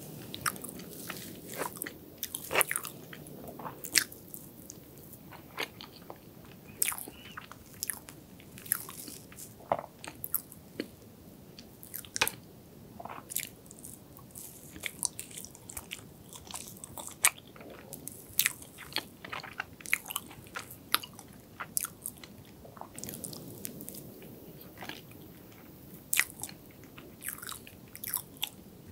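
Close-miked chewing and mouth sounds of eating soft chocolate cake with cream, with many sharp, wet clicks and smacks scattered irregularly throughout.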